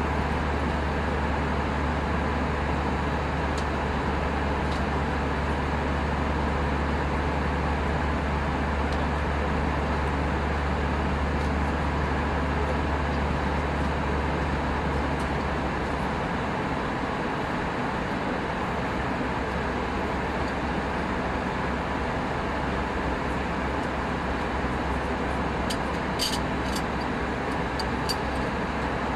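Steady cabin noise of an Airbus A319 in flight: a constant rush of airflow and engine noise. A deep hum under it drops away a little past halfway, and a few faint clicks come near the end.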